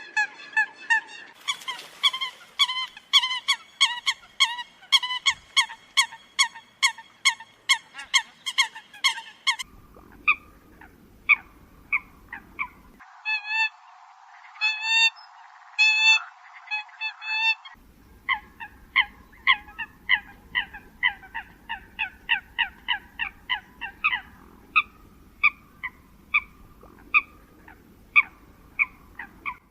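Eurasian coots calling: a rapid series of short, honking calls, two to three a second. The sound is a looped lure recording, so the character shifts abruptly where segments are joined, about ten, thirteen and eighteen seconds in.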